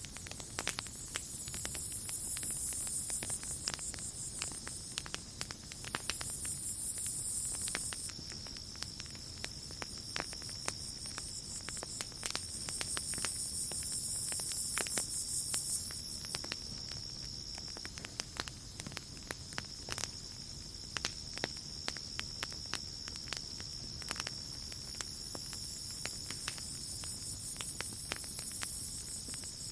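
Campfire crackling with frequent sharp pops, over night insects: a steady high cricket trill and a higher insect buzzing that swells and fades several times.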